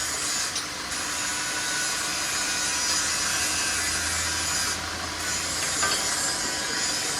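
Metal being machined on a crankshaft in a workshop: a steady, harsh, high-pitched grinding hiss that breaks off briefly about half a second in and again near five seconds.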